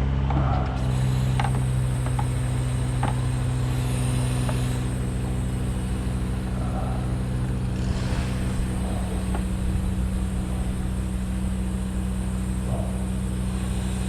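An engine running steadily at a constant speed, with a few small clicks and knocks over it.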